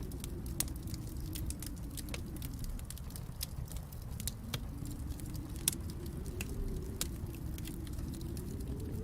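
Wood fire crackling, with frequent small pops and one sharper pop a little over halfway through, over a low steady rumble that fades a little and then swells back.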